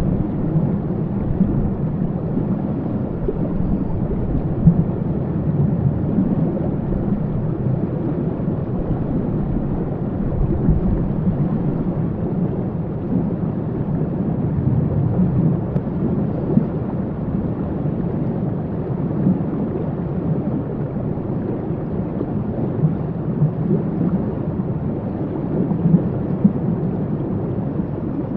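Waterfall: a steady, deep rush of falling water, even throughout with no distinct events.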